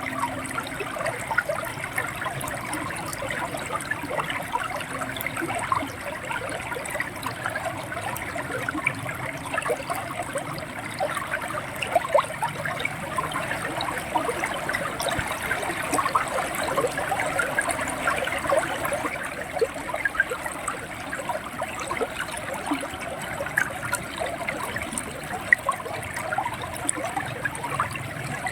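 Shallow river water running and gurgling over stones, a steady splashing babble with many small bright droplet sounds.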